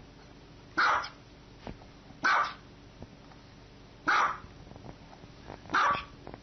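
Small white dog barking: four single, sharp barks, evenly spaced about every second and a half to two seconds.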